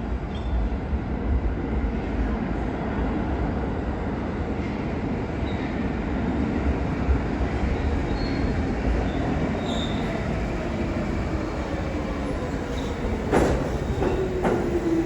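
New York City subway train rumbling along the rails, with a whine that falls steadily in pitch as it slows and two sharp knocks near the end.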